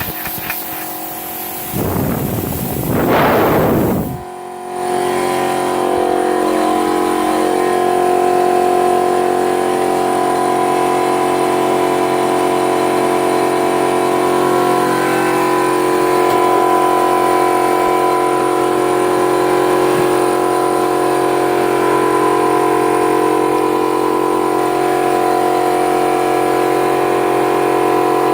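CUT50 plasma cutter firing: a short rush of air about two seconds in, then a loud, steady electrical buzz that runs evenly for more than twenty seconds.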